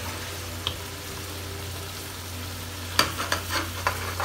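Meatballs and potatoes sizzling in oil in a steel pot as they are browned, over a steady low hum. About three seconds in, a steel ladle starts clinking and scraping against the pot in a quick run of sharp knocks.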